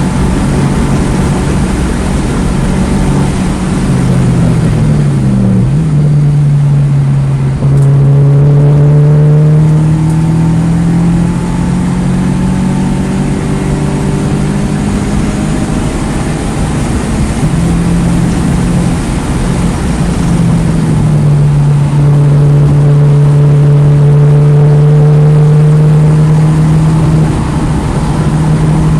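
2009 Mini Cooper S's turbocharged 1.6-litre four-cylinder engine running hard at track speed over steady road and wind noise. The engine note drops and shifts at gear changes, about five seconds in and again around twenty seconds in. Otherwise it holds steady or climbs slowly under load.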